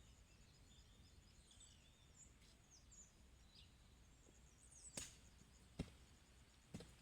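Faint birds chirping over a steady, fast-pulsing high insect trill, with three sharp knocks in the last two seconds.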